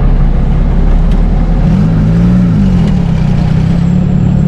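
A motor engine running loudly and steadily, its pitch briefly rising and falling back about two seconds in as it revs.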